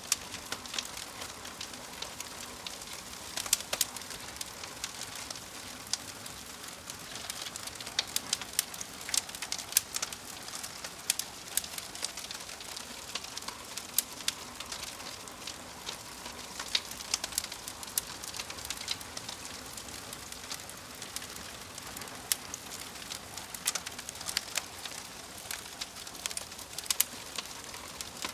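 Log fire in a fireplace burning steadily with a soft hiss and frequent irregular sharp crackles and pops.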